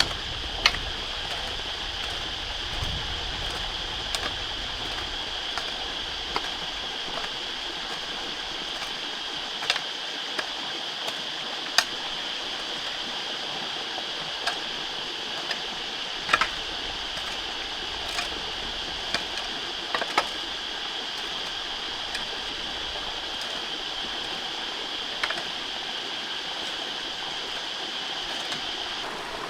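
Steady rushing outdoor noise like flowing water, with a dozen or so scattered sharp clicks and taps.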